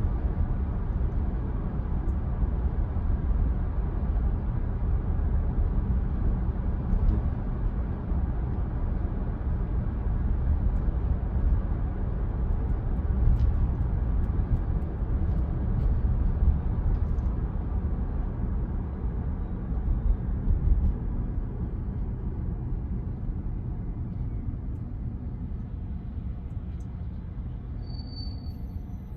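Steady road and tyre rumble of a 2022 Tesla Model Y Performance driving at speed. It grows quieter over the last several seconds as the car slows, with a brief high beep near the end.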